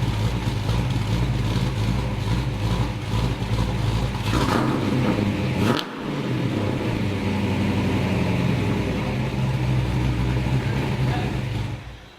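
Cammed 306 Ford V8 running through a Pypes M80 cat-back exhaust, a steady low engine note with a brief change in the sound around five to six seconds in.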